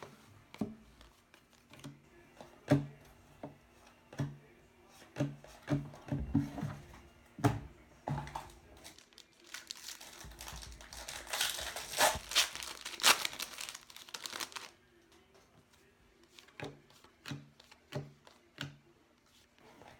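A baseball card pack's wrapper being torn open and crinkled for about five seconds in the middle, with sharp clicks and taps of cards being handled and flipped before and after.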